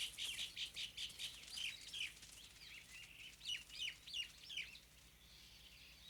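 Faint birdsong: many short, quick falling chirps from several birds, thick at first and thinning out until they stop about five seconds in.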